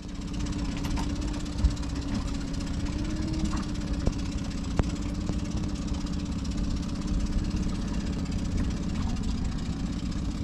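Boat engine idling steadily, with a few light knocks.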